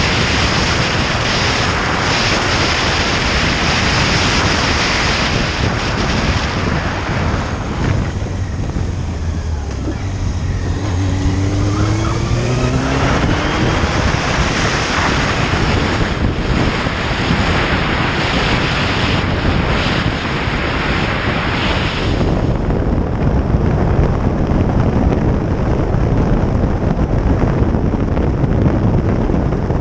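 Motorcycle on the move: steady wind rush over the microphone with the engine running underneath. Just before the middle the wind drops briefly and the engine is heard revving up, rising in pitch as the bike accelerates, then the wind noise builds again.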